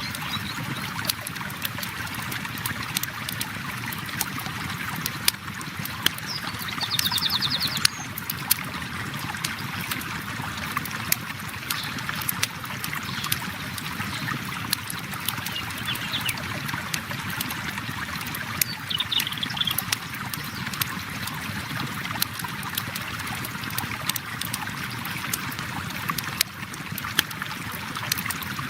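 A river flowing steadily, with a wood campfire crackling and popping throughout in frequent sharp snaps.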